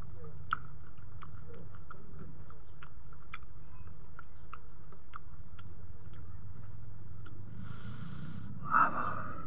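A person chewing a bite of king chilli with small wet mouth clicks, over a steady low hum. Near the end there is a short, loud, sharp breath through the mouth or nose.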